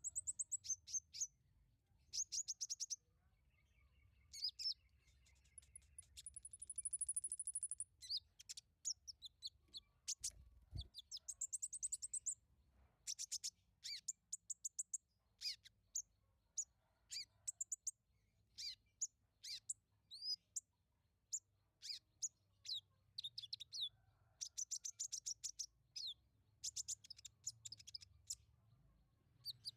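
A small songbird singing in quick bursts of high-pitched chirps and rapid trills, with a longer, high, sustained trill about seven seconds in. There is a single soft thump near eleven seconds.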